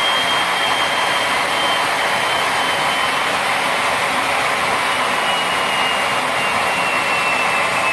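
Homemade turbocharger jet engine running: a steady loud rushing roar with a high turbine whine that slowly falls in pitch.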